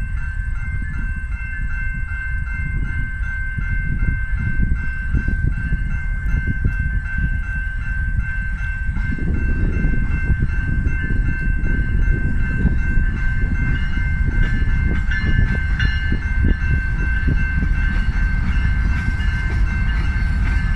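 CN intermodal freight train rumbling past a level crossing, the rumble getting louder about nine seconds in. A steady, evenly pulsing ringing above it fits the crossing's warning bell.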